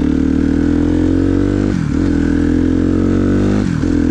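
Dirt bike engine pulling under throttle, its pitch climbing slowly and falling away sharply twice, about two and four seconds in, before climbing again.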